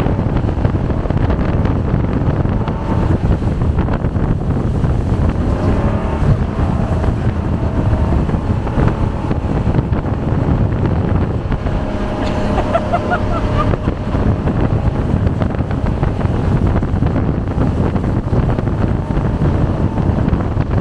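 Jet boat running at speed on a river: a steady engine and water-jet noise, with wind buffeting the microphone.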